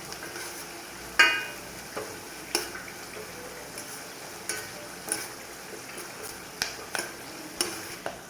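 Garlic, pepper, cumin and curry leaves sizzling gently in a pan on a low flame, while a metal spoon stirring them clinks and scrapes against the pan every second or so. The loudest is a ringing clink about a second in.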